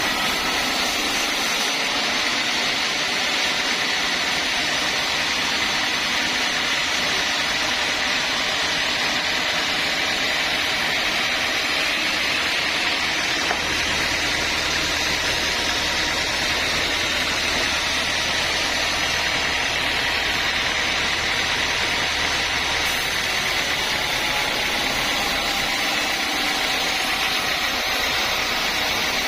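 Sawmill saw machinery running steadily, a loud even mechanical noise with a faint high whine, without a break.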